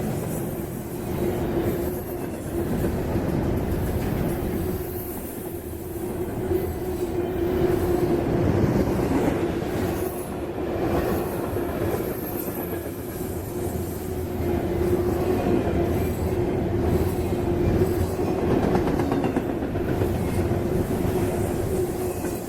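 Freight train cars rolling by on the rails: a continuous rolling rumble with a steady, sustained tone from the wheels running through it.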